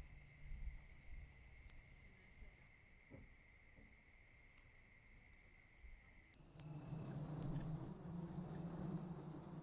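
Insects trilling steadily in one continuous high-pitched note. About six and a half seconds in, a low steady hum joins it.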